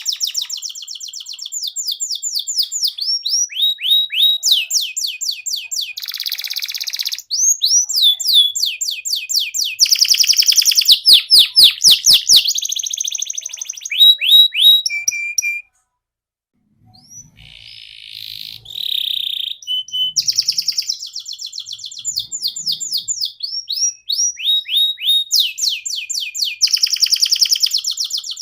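Domestic canary singing a long, loud song of rapid repeated trills and chirps, with a short break about two-thirds of the way through.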